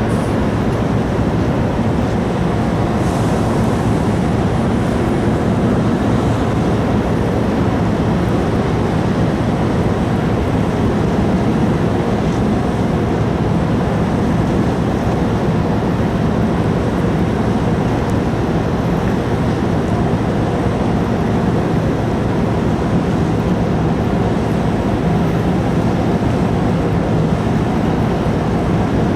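Steady low drone of the car ferry Orange 7 under way, mixed with wind and rushing water noise.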